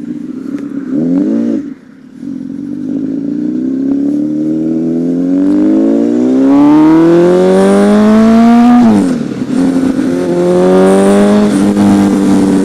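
Honda CBR1000RR Fireblade's inline-four engine accelerating hard through the gears. A quick rev about a second in is followed by a long pull rising in pitch for about seven seconds. The pitch drops sharply at the upshift, a shorter pull follows, and the engine settles into a steady cruise after another shift.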